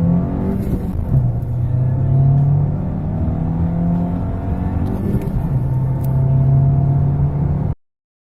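Skoda Octavia Mk3 engine under hard acceleration, revs climbing steadily through the gears, with upshifts that drop the revs about half a second in and again about five seconds in. The sound cuts off abruptly just before the end.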